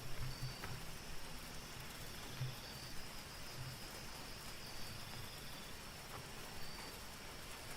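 Soft rain falling as a steady, even hiss, with night insects calling in a high, continuous trill and short high chirps about every two seconds.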